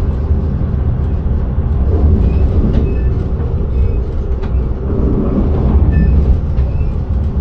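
Train running on the track, heard inside the driver's cab: a steady, loud low rumble with a few faint short high chirps.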